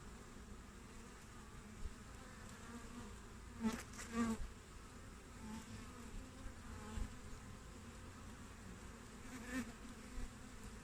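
Honeybees buzzing at a hive entrance: a steady hum from many bees, with single bees flying close past the microphone and buzzing louder twice, about four seconds in and again near the end.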